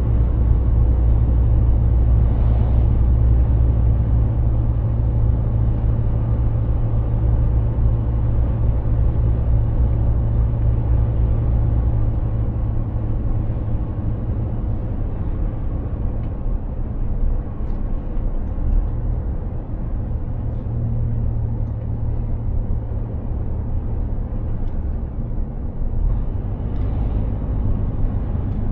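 Mercedes-Benz Actros heavy truck under way: a steady low engine drone with road and tyre noise. The drone drops a little lower and quieter about halfway through.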